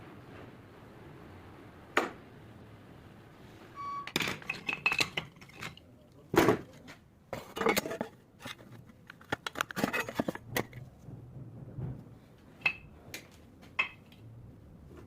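Small metal parts and tools clinking and knocking together as they are handled: an irregular run of sharp clinks, a few ringing briefly.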